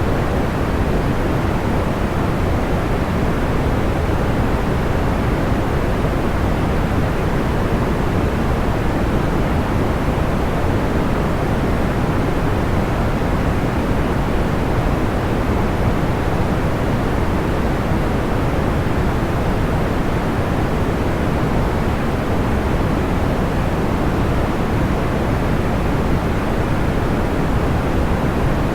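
Steady, soft white noise weighted toward the low end, even and unchanging, with no distinct crackles or pops.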